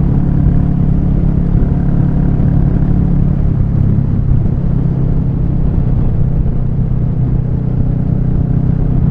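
Royal Enfield Meteor 350's single-cylinder engine running steadily while riding, with low road and wind noise. Its pitch dips slightly about four seconds in, then holds.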